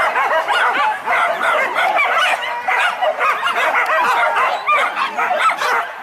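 A pack of hunting dogs barking and yelping over one another without a break: the dogs are fighting a wild boar.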